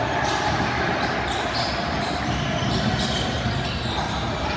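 Basketball game sounds: a basketball bouncing on the court amid the general noise of play, with background voices.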